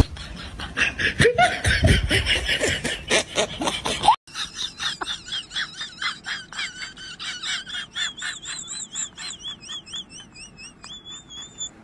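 Laughter in quick repeated bursts. After a sudden cut about four seconds in, a high-pitched laugh runs on in fast, even pulses, wavering and slowly falling in pitch, and fades toward the end.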